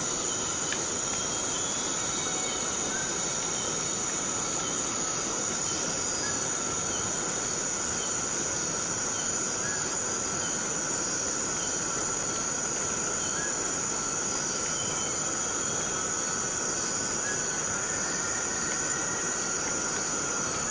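Steady rain falling on forest foliage under a continuous high-pitched insect drone, with a second lower steady insect tone and scattered short chirps.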